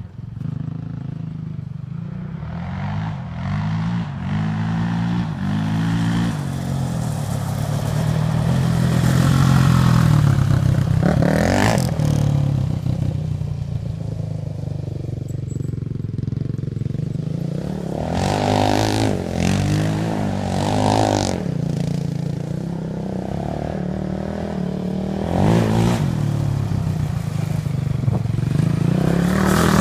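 Honda TRX450R sport quad's single-cylinder four-stroke engine through an aftermarket DG exhaust, revving up and easing off again and again while spinning donuts on gravel, with gravel hissing and scattering under the tyres.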